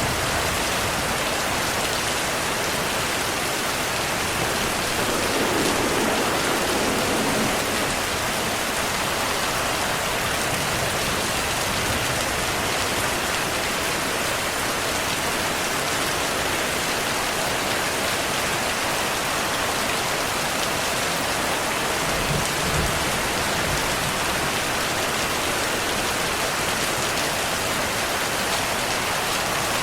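Heavy, steady rainfall pouring down, with a brief low rumble about two-thirds of the way through.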